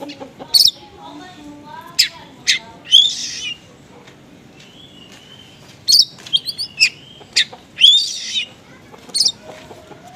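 Small songbirds calling in sharp, high chirps, with a longer harsh, buzzy note twice. There is a lull in the middle, then a quick cluster of chirps.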